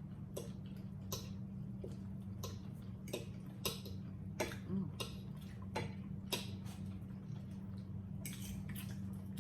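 Eating noises at a meal of roast chicken and rice: about a dozen short, sharp clicks and smacks at irregular intervals, over a steady low electrical-sounding hum.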